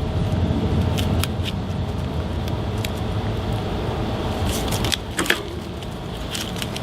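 Scattered sharp clicks and small rattles from handling clamps and paper while clamping glued plastic pieces, with a cluster of clicks about five seconds in, over a steady low background rumble.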